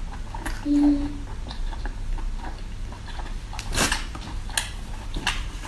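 Close-miked chewing and lip-smacking on baby octopus: scattered small wet clicks, one louder smack just under four seconds in, and a brief hummed "mm" about a second in.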